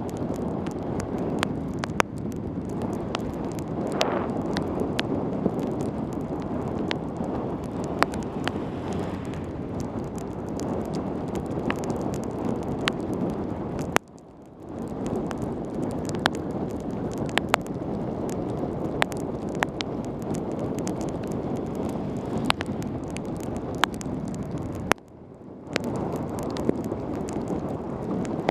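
Wind rushing over a Contour helmet camera's microphone as a mountain bike speeds down a wet road in heavy rain, with scattered sharp ticks throughout. The rush cuts out abruptly twice, about halfway and a few seconds before the end, then builds back.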